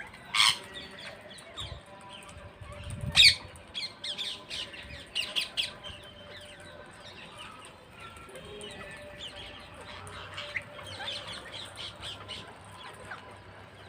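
Parrots squawking: two loud, shrill screeches about half a second and three seconds in, then a quick run of shorter squawks, and softer chattering calls near the end.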